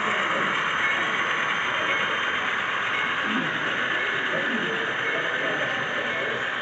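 Model trains running on a layout, giving a steady whirring, rolling noise from their motors and wheels on the track. Faint voices are heard behind it.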